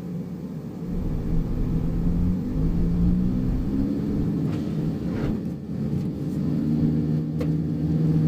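Suzuki Solio Bandit being driven: a steady low rumble of engine and road with a few held low-pitched tones, and a couple of brief rising sweeps about five seconds in.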